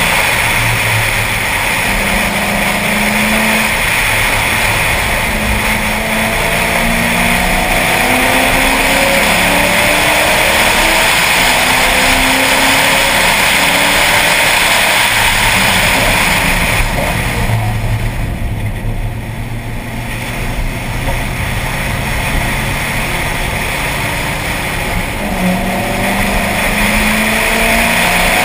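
Ford Mustang's engine heard from inside the cabin under hard acceleration, its pitch rising as it pulls through the gears, over steady wind and road noise. About two-thirds of the way through it eases off as the car slows for a turn, then pulls again near the end.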